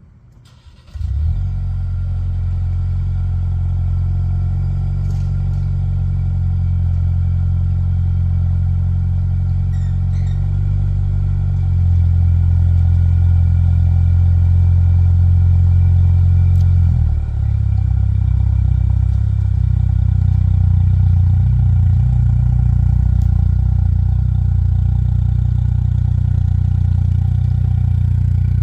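2025 Ford Explorer Active's 2.3 L EcoBoost four-cylinder, fitted with a pair of Jones Full Boar performance mufflers and the resonator deleted, starting about a second in on a cold or semi-cold start, then running on at a steady cold high idle. The exhaust tone dips briefly and shifts about two-thirds of the way through.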